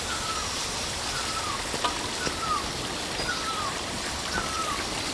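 A forest bird repeating one short, falling call about once a second, over the steady rush of a mountain stream.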